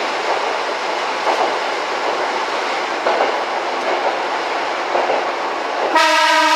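Train running along the rails with a steady rumble and clatter, then a train horn sounding once near the end.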